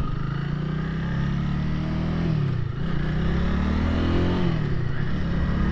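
Honda Rebel 300's single-cylinder engine running under way. Its pitch drops about two seconds in, then climbs again over the next couple of seconds, as on a throttle-off then throttle-on.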